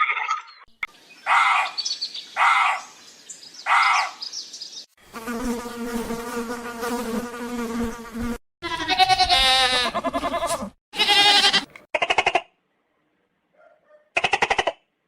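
A series of separate short animal sounds: three brief squeaky calls, then a steady buzzing hum lasting about three seconds, followed by several short, rapidly pulsing buzzes with silent gaps between them, like insect buzzing.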